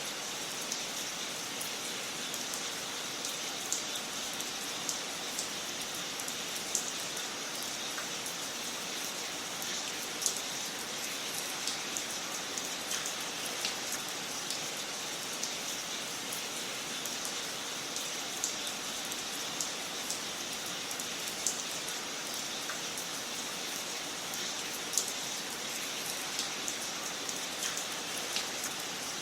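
Wood fire crackling in a fireplace: a steady hiss with frequent small, sharp pops scattered irregularly throughout.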